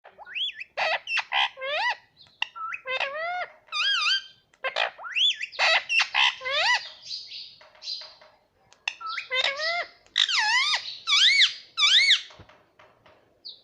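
Young parrot calling again and again: short squawks and chirps that swoop up and down in pitch, coming in quick runs separated by brief pauses.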